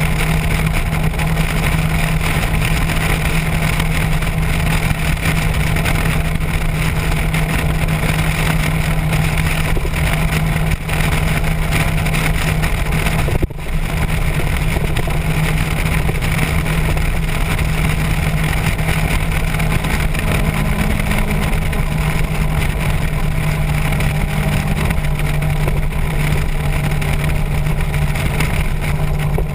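Motorcycle engine running at a steady cruise under wind rush on the microphone, its note holding steady, with a brief dip in the sound about halfway through.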